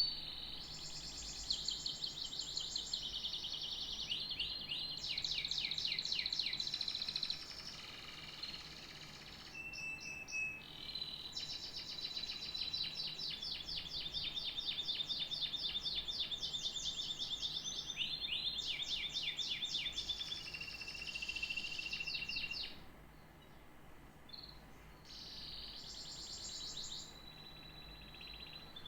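Domestic canary singing a long, varied song of rapid trills and held whistled notes, with a brief lull near the end.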